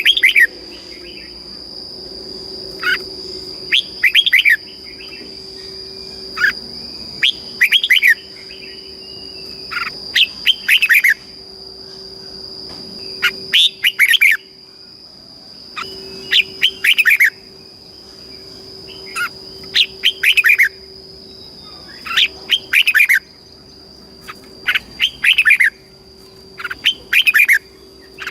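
Red-whiskered bulbul singing short, quick warbling phrases, about a dozen of them, one every two to three seconds. A steady high-pitched whine runs underneath.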